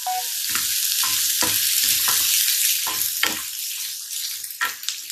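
Freshly added chopped onions sizzling in hot oil in a frying pan, the sizzle loud at first and slowly dying down, with a wooden spatula knocking and scraping against the pan every half second or so as they are stirred.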